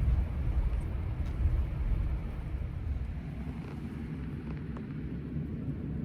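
2024 Ram 1500 Hemi pickup driving: a low, steady rumble of engine and road noise, a little louder in the first couple of seconds.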